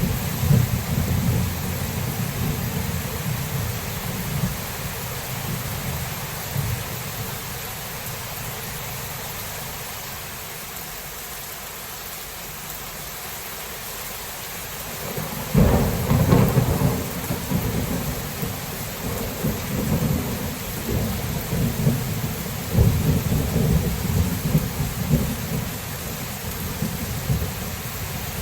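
Steady rain falling through a thunderstorm. A low thunder rumble fades away over the first half, then a sudden thunderclap breaks a little past halfway and rolls on in long rumbles.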